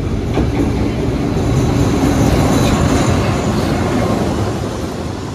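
Diesel locomotive hauling a passenger train into a station as it passes close by: engine rumble and wheels running on the rails, loudest about two to three seconds in, then easing as the coaches roll past. A faint high wheel squeal runs through the middle.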